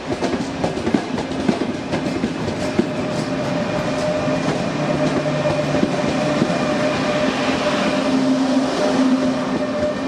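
A train moving along the track: wheels clacking over rail joints in the first few seconds, then a steady running hum with a few held tones that grows a little louder toward the end.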